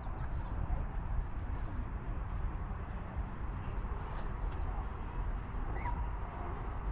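Outdoor ambience: a steady low rumble with a few faint, short high chirps, like small birds calling.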